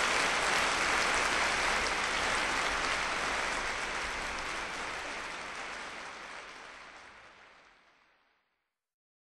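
Dense, even noise like applause, fading out gradually to silence about eight seconds in.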